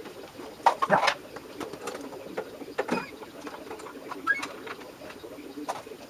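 Birds cooing, with a few short sharp clinks or knocks scattered through.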